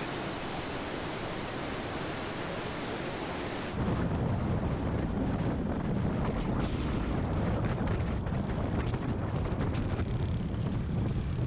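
Steady rushing of a waterfall for the first few seconds. It then cuts abruptly to a low, gusting rumble of wind on the microphone of a moving motorbike.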